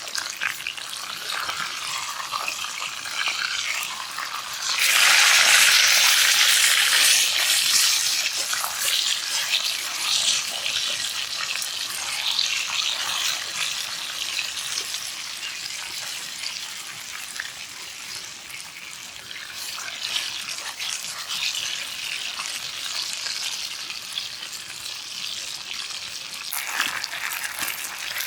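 Food sizzling in a hot pan over a campfire, with a sudden louder burst of sizzling about five seconds in that dies down over a few seconds.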